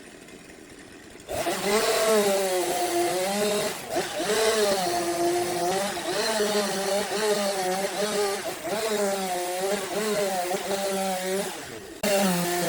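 Wood lathe turning a wooden block with a cutting tool held to it, making a steady droning tone whose pitch wavers up and down as the tool bites. The drone starts a little over a second in, after a brief quiet stretch.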